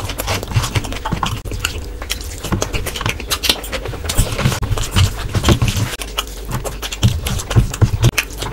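Close-miked wet chewing and mouth smacking from eating rice and curry by hand, with soft squishing as the fingers mix rice on the plate. Irregular clicks and soft thumps come several times a second.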